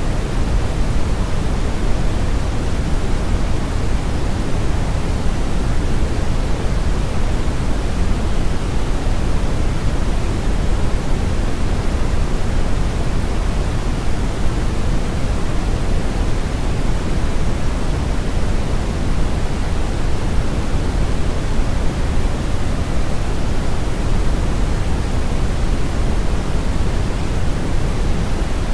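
Steady brown noise: a constant, deep, rushing hiss with most of its weight in the bass and the highs rolled off, unchanging throughout.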